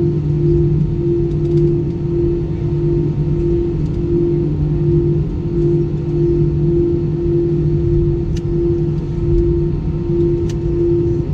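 Airbus A320 cabin noise from its CFM engines running steadily. The low hum pulses about twice a second, like two engines beating against each other.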